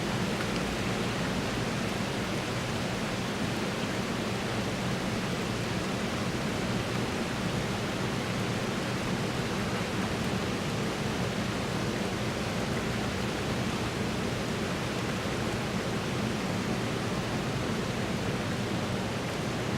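Steady rain falling, an even hiss with no distinct drops, knocks or other events standing out.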